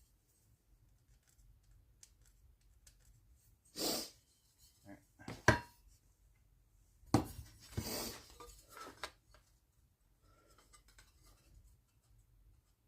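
Workbench handling sounds: a few short scrapes and knocks of wood pieces and hand tools being picked up and set down, with one sharp knock about five and a half seconds in.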